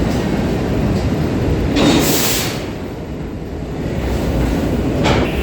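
Subway construction work train rumbling through an underground station, with a short burst of hiss about two seconds in and a brief noisy swell near the end.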